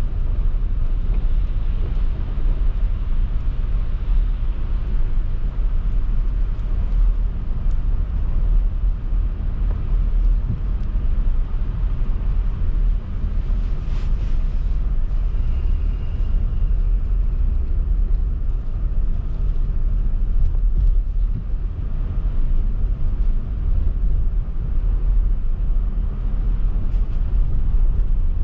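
A car driving through snowy streets: steady low rumble of engine and tyres, with a single short click about halfway through.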